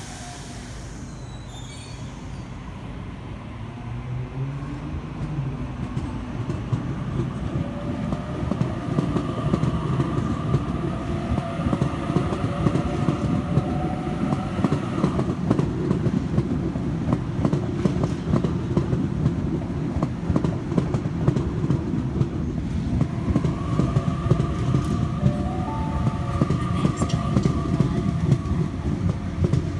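A Sydney Trains Waratah (A-set) electric suburban train pulling out and accelerating past, growing louder over the first few seconds. Its traction motors whine with rising pitch, twice, over dense clicking and rattling of the wheels on the track.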